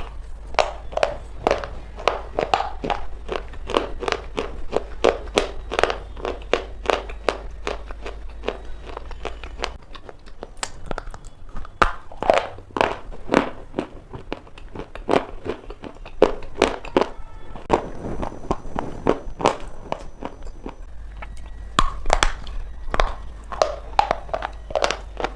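Pieces of dry black shale being bitten and chewed, a fast irregular series of sharp crunches with a brief pause partway through.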